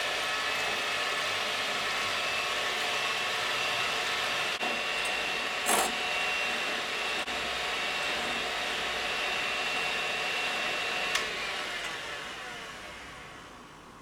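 Electric mixer running steadily with a constant high whine, probably whipping separated egg whites; a brief knock about six seconds in, and the motor sound dies away near the end.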